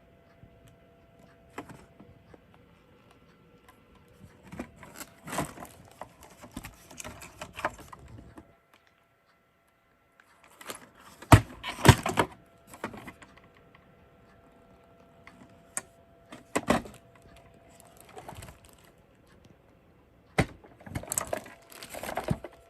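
Handling noise from a plastic toy subway car being picked up and turned over: scattered clicks, knocks and rustles, the sharpest two close together about halfway through, over a faint steady hum.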